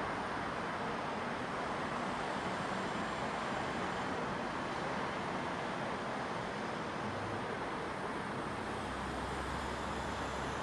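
Steady ambience of a residential neighbourhood: an even wash of distant traffic noise with no distinct events, and a faint low hum coming in near the end.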